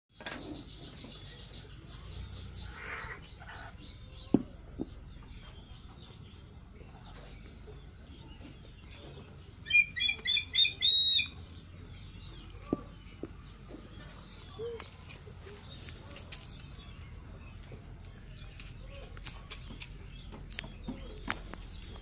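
A bird calling: a quick run of high, shrill notes in the first few seconds, then a loud series of about five sharp calls around the middle. Faint rustling and a few clicks in between.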